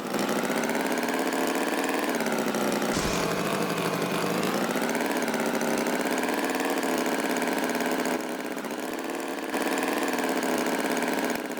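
An engine running steadily, its pitch wavering slightly, a little quieter for about a second and a half after the eighth second.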